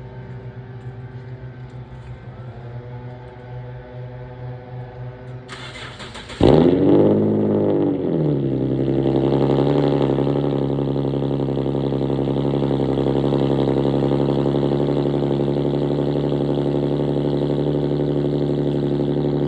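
Infiniti G37's 3.7-litre VQ37VHR V6, straight-piped by a muffler and resonator delete, cold-started: a brief crank about five and a half seconds in, then the engine catches loudly with a flare that rises and falls in pitch and settles into a loud, steady fast idle. Before the start a quieter, steady engine hum is heard.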